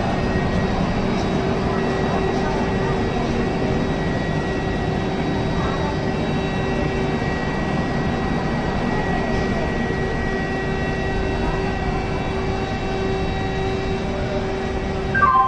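Indian Railways LHB passenger coaches rolling along a platform as an express train arrives: a steady rumble of wheels on rail, with faint steady whining tones over it.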